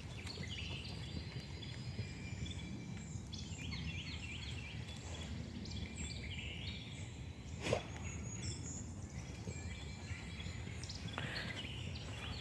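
Scattered chirps and twitters from a flock of small birds, taken for swallows, over a steady low outdoor rumble. One sharp click about eight seconds in.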